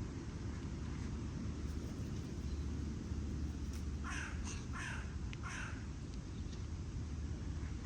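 A crow cawing three times in quick succession about halfway through, each caw short and falling in pitch, over a steady low rumble.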